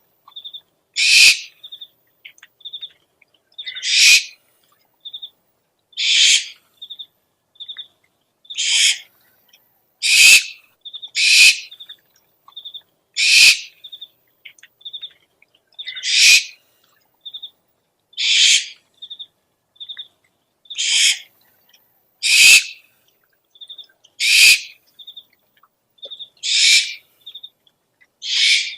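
Owl lure recording: harsh, rasping owl screeches repeat every one to three seconds, about fourteen in all. Between them come quieter pairs of short, high whistled notes.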